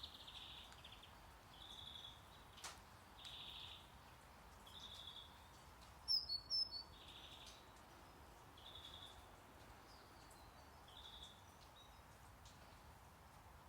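Faint recorded nature sounds over a low steady hiss of brown noise. A short high chirping call repeats about every second and a half, and a brief cluster of sharper, louder bird chirps comes about six seconds in.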